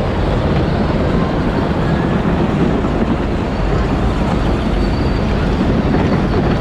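Power Wheels ride-on toy car driving: a steady, loud rumble of its drivetrain and wheels heard from on board, with a faint high whine near the end.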